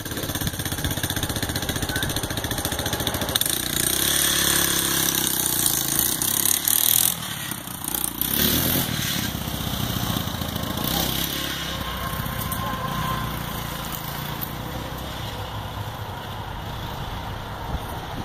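Suzuki LT230 ATV's single-cylinder four-stroke engine running, louder and revved harder from about three and a half to seven seconds in, then easing back.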